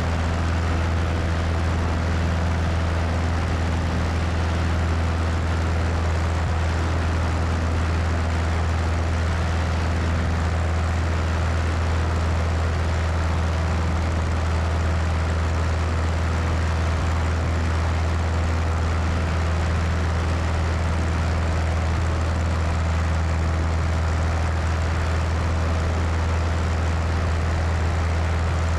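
Cessna 172 piston engine and propeller running steadily at constant power, heard from the wing with heavy wind rush over the microphone. A low, even drone with a broad rushing noise over it, without change.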